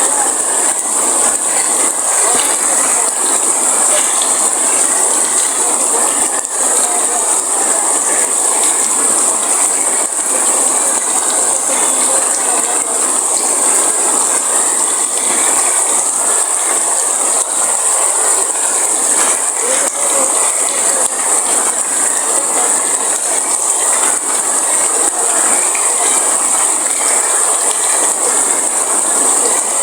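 Heavy rain falling steadily: a loud, even wash of drops with a bright, hissy top, and no thunder.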